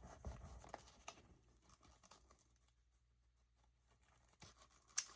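Faint handling of paper: light rustles and taps in the first second, then near silence, then two sharp clicks near the end.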